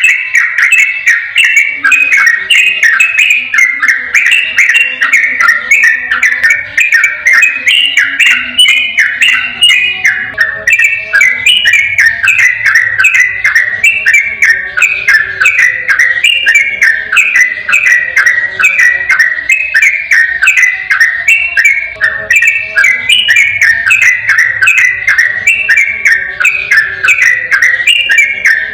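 Yellow-vented bulbul singing a rapid, unbroken run of short, clear whistled notes, about four a second.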